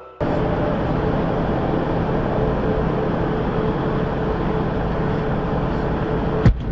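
Steady road and engine noise of a moving car picked up by a dash cam, with one sharp, loud knock near the end.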